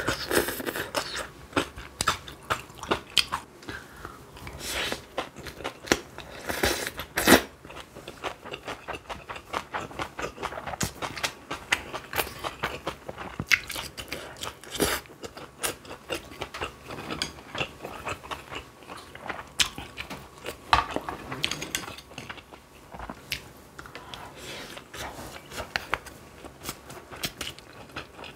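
Close-miked eating sounds: irregular chewing, biting and wet mouth clicks, with a few sharper, louder clicks along the way.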